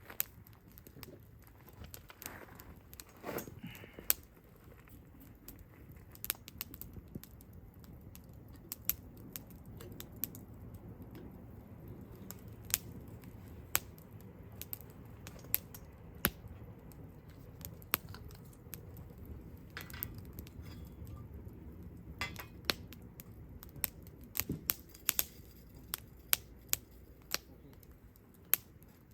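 Wood campfire crackling: irregular sharp pops and snaps over a low rush of burning, with a few brief hisses.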